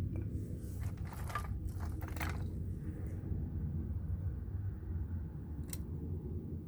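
Split oak firewood being handled and stacked: a few short scrapes of wood on wood in the first couple of seconds and a single light knock near the end, over a steady low rumble.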